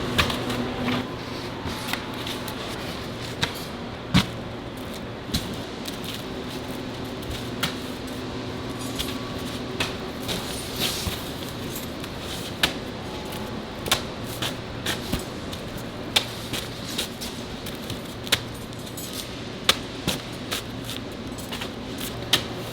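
Steady machinery hum with irregular sharp clinks and knocks, roughly one every second or two, from hand work on a precast concrete slab production floor.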